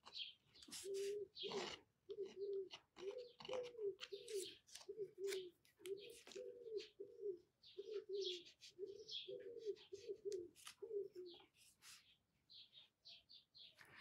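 A bird cooing in a long, even run of short low notes, about two a second, that stops about eleven seconds in. Small birds chirp faintly over it.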